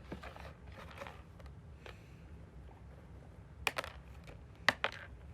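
Light rustling and scraping of small hard things being handled, then a few sharp clicks near the end.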